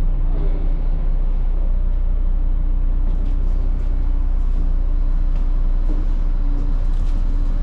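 Vehicle engine running steadily: a constant low rumble with a faint steady hum, and a few faint light clicks in the second half.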